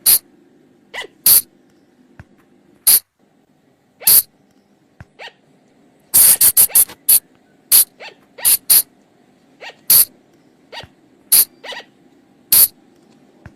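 Sunda colugo (flying lemur) calls: short, sharp, shrill cries repeated at irregular intervals, with a quick run of several about six seconds in, over a faint steady hum.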